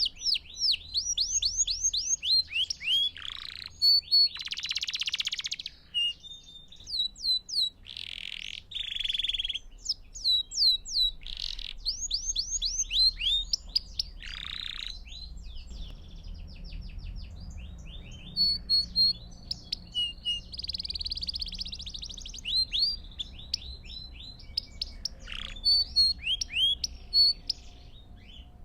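Belgian canary singing a continuous song of fast trills, each made of quickly repeated falling notes, broken now and then by short harsh, raspy notes.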